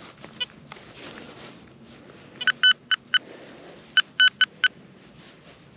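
Garrett Vortex VX9 metal detector giving short, single-pitched beeps in two quick groups of about four, a target response while sweeping over pasture.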